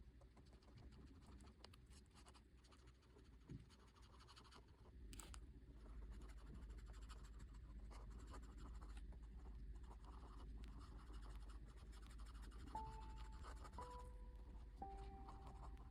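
Faint scratching of a drawing tool on paper: many short, quick strokes. A few soft, held music notes come in near the end.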